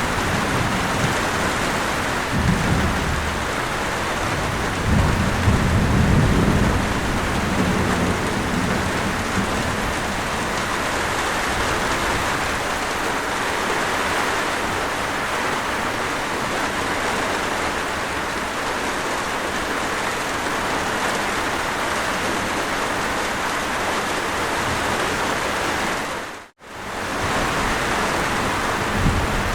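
Steady heavy rain, with low rolls of thunder rumbling twice in the first third. Near the end the rain briefly fades to silence and comes straight back.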